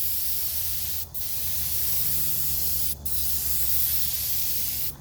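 Compressed-air paint spray gun spraying metallic green paint in a steady hiss, cut by two short breaks, about a second in and at three seconds.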